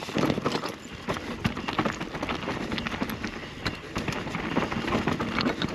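Mountain bike rolling down a steep, rough dirt trail: tyres crunching over dirt and rocks and the bike rattling with dense, irregular clicks and knocks over the bumps.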